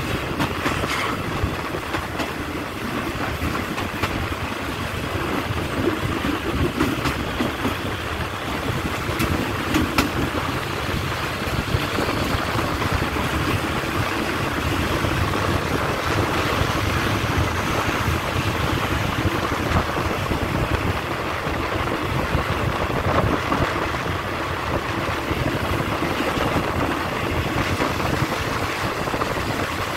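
Passenger train running along the track, heard from an open coach window: steady wheel and rail noise mixed with wind on the microphone, with a few sharp clicks in the first ten seconds.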